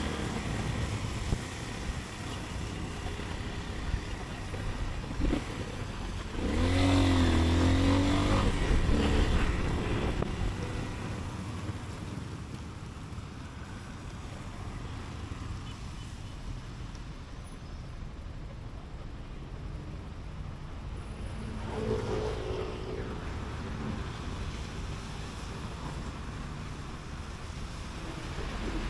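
Motorcycle riding through city traffic: steady engine and road noise. From about seven to nine seconds in, a louder engine sound swells, its pitch dipping and then rising, and a fainter one follows about twenty-two seconds in.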